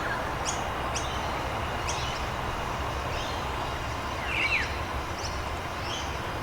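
Steady rain falling, a continuous even hiss, with small birds calling over it in short, quick downward-sweeping chirps: a few in the first two seconds and a brief cluster about four and a half seconds in.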